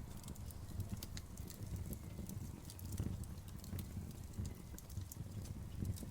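Wood fire burning, with irregular sharp snaps and pops over a steady low rumble of the flames.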